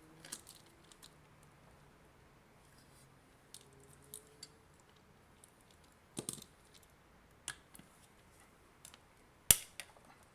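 Scattered small clicks and scrapes of a tool working at a thick, sealed hard-plastic adapter casing that will not open easily, with a short cluster of scraping about six seconds in and one sharp, loud click near the end.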